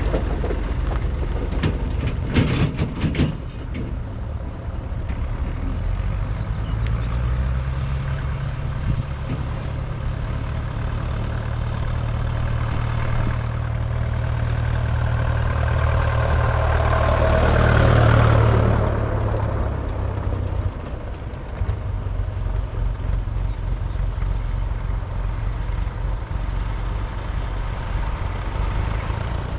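Vintage tractor engines running as tractors drive in one after another, with a few sharp knocks about two to three seconds in. One tractor's engine note builds to its loudest about eighteen seconds in as it passes close, then falls away to a steady low rumble.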